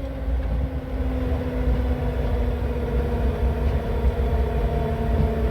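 Engine of a vehicle towing a pickup on a tether, running steadily under load, with a steady low rumble.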